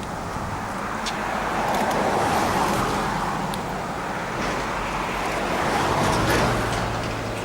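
Heritage diesel-electric locomotives X31 and B74 hauling a train past, a steady rumble that swells twice, with a few short clicks.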